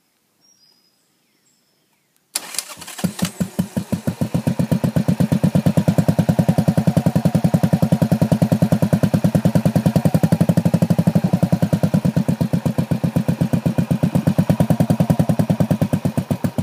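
Small motorcycle engine starting: a sudden start about two seconds in, a few uneven firings, then it catches and runs with an even, rapid beat of firing pulses. The beat weakens and falters near the end.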